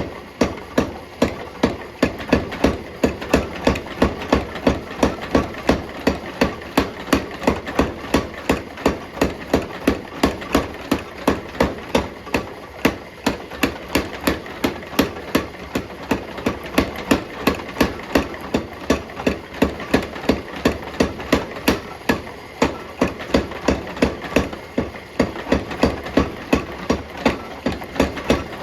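Hammer blows on hot steel bar at an anvil, an even rhythm of about three strikes a second, over a steady background hum.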